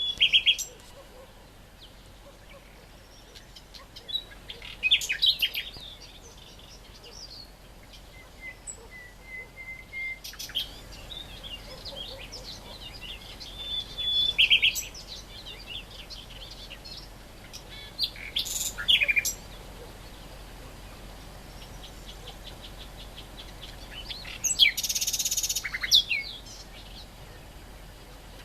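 Great reed warbler singing in separate bouts of loud, fast-changing chattering phrases, with short pauses between them.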